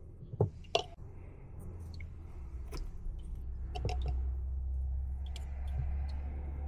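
Sharp clicks and knocks of work on plastic condensate drain fittings, two loud ones in the first second and scattered lighter ones after, over a steady low hum that gets louder a few seconds in.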